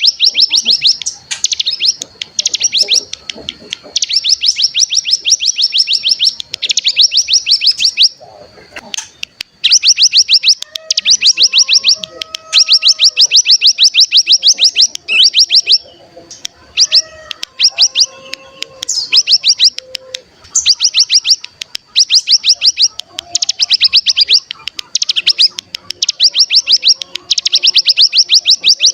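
Ciblek gunung singing its 'bren': rapid, high buzzy trills in repeated bursts of one to two seconds, with a short break about a third of the way in. Fainter, lower whistled notes come in under the trills through the middle. It is a lure call meant to set other cigun singing.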